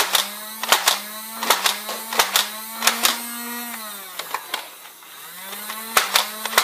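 Nerf Hail-Fire dart blaster firing: its motor whirs steadily while darts go off in sharp clacks about every three-quarters of a second. About four seconds in, the motor winds down. It spins back up near the end and quick shots follow.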